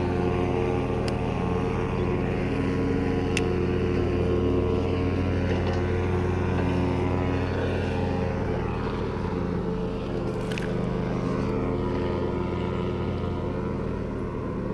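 A motor running steadily with an even, unchanging drone, with a few faint clicks over it.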